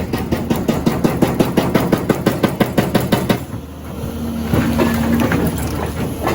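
Hydraulic breaker hammering rock in rapid, even blows, about seven a second, over a machine's engine. The hammering stops about three and a half seconds in and the engine keeps running.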